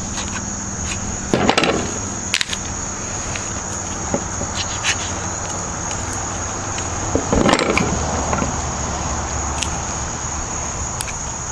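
A steady high-pitched insect drone, like crickets, runs under occasional knocks and scrapes of knife work on a chicken carcass, the loudest scrapes about a second and a half in and again about seven and a half seconds in.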